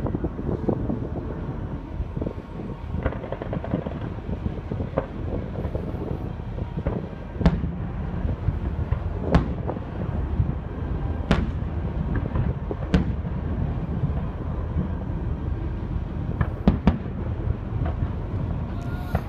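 Distant fireworks bursting: a run of sharp bangs, several about two seconds apart, over a steady low rumble.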